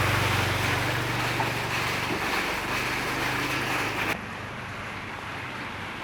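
A vehicle engine running under a steady rushing noise. About four seconds in, the sound cuts abruptly to a quieter, steady background.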